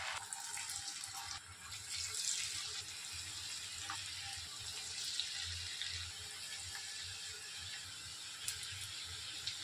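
Chakli dough spirals frying in hot oil in a pan: a steady sizzle with a few faint crackles.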